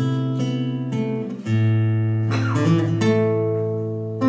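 Acoustic guitar playing sustained strummed chords with no voice, a new chord struck about a second and a half in.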